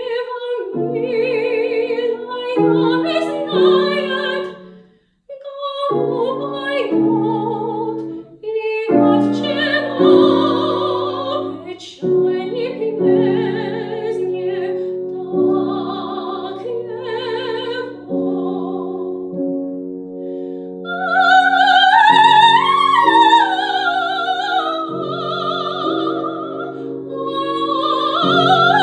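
Classical soprano singing an art song with piano accompaniment, her held notes wavering with vibrato. The music breaks off briefly about five seconds in, and the voice climbs to loud, high sustained notes in the last third.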